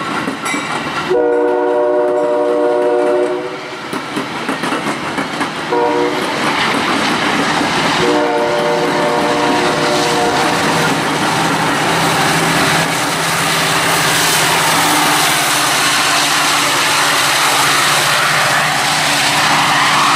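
Metra bilevel commuter train passing at speed, cars rumbling and clacking over rail joints. The horn blows a long chord, a short one, then another long one in the first half. After that a diesel locomotive at the rear of the train runs steadily and grows slightly louder as it draws near.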